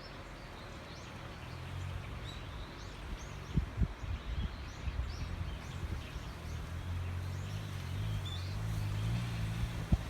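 Small birds chirping in short, repeated calls over a steady low engine hum, with a few sharp knocks about three and a half seconds in and near the end.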